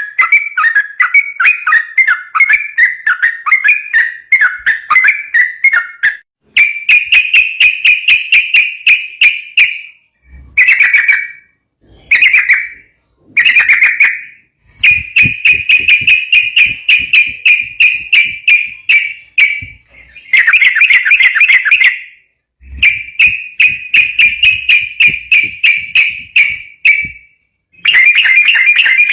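Yellow-vented bulbul (trucukan) singing fast and continuously: loud runs of quick, chattering whistled notes, about six a second, in bursts of one to five seconds with short pauses between.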